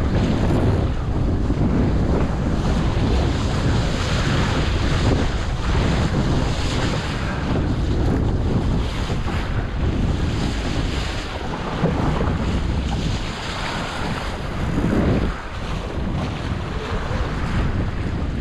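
Heavy wind buffeting the microphone over water rushing and splashing past the hull of a small sailing dinghy under way.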